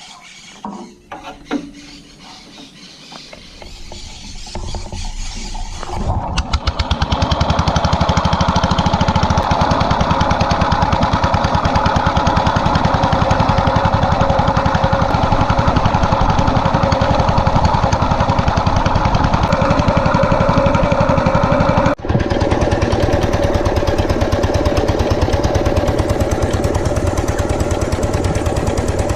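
Small stationary engine starting up and coming up to speed, then running steadily with a rapid, even beat. There is a momentary break about 22 seconds in.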